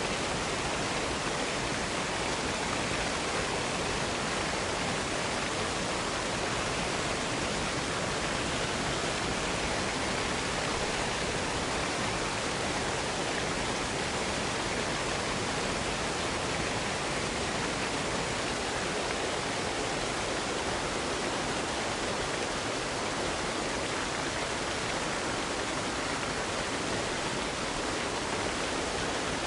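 Steady, unbroken rush of falling water from a waterfall, an even white-noise hiss with no changes.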